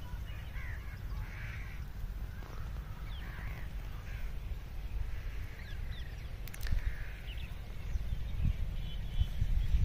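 Birds calling here and there in short calls over an open field, with a steady low rumble on the microphone that is the loudest part of the sound.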